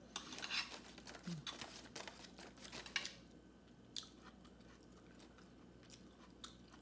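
Crunchy chewing of fried, battered food close to the microphone. It is dense crackling for about the first three seconds, then a few scattered crunches.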